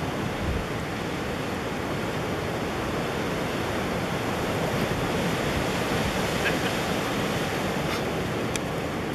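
Blizzard wind blowing steadily, a rushing noise that holds level throughout.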